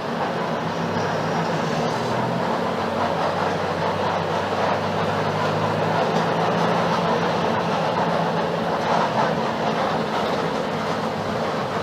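Mercedes-Benz OF-1721 BlueTec 5 bus's four-cylinder diesel engine running steadily while the bus is under way, heard inside the cabin along with road and body noise. It grows a little louder through the middle, then eases.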